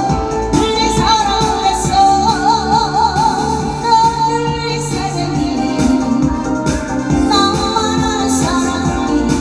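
A woman singing a Korean trot-style song with wide vibrato over a band accompaniment with a steady beat.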